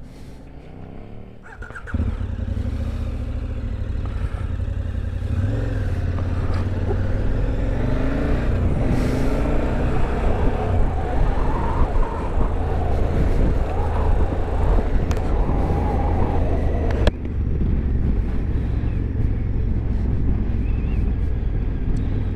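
Motorcycle engine running on the road with heavy low rumble and wind noise, its pitch rising and falling as it accelerates and eases off. The sound jumps up about two seconds in and changes abruptly about seventeen seconds in, when the hiss drops away.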